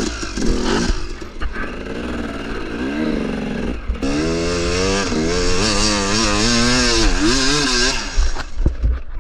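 KTM 300 two-stroke dirt bike engine revving hard under load as the rider tries to make it up a run. The revs rise about three seconds in, hold high and wavering for about four seconds, then drop away.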